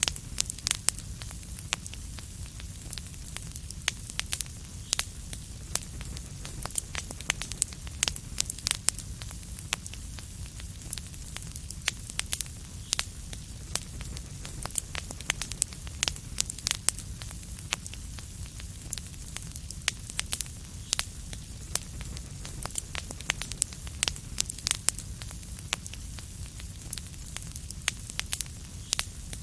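Wood fire crackling in a fireplace: a steady low rumble of flame under a stream of irregular sharp crackles and occasional louder pops.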